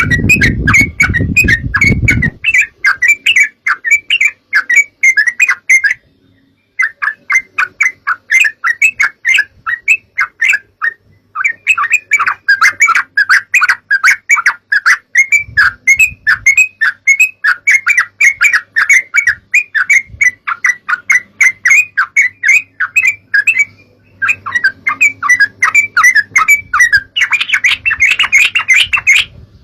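Yellow-vented bulbul (trucukan) calling: a fast, bubbly string of short chattering notes, several a second, with a few brief pauses. A low rumble sounds under the calls in the first two seconds.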